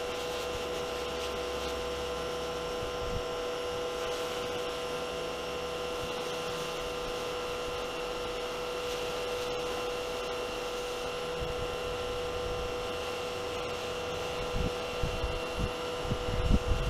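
A small motor running with a steady, even hum, likely the power-cleaning gear being used on the boat. A few low bumps come in near the end.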